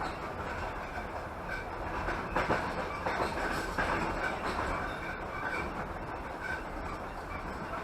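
Passenger train running, heard from inside the carriage: a steady rumble of wheels on rails, with a louder stretch of clattering about two and a half to four seconds in.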